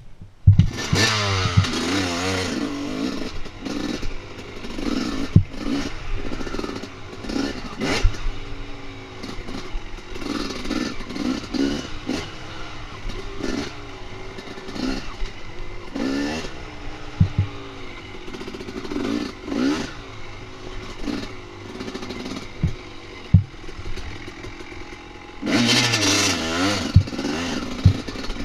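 Dirt bike engine revving up and down repeatedly as it rides, with sharp knocks and clatter scattered throughout. The engine comes in suddenly at the start and runs louder for a few seconds near the end.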